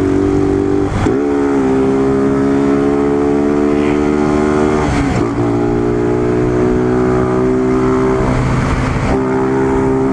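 Honda CG 150 Fan's single-cylinder four-stroke engine through an open straight pipe, pulling under way with its pitch slowly climbing. It breaks off briefly for gear shifts about a second in, around five seconds in, and again near nine seconds.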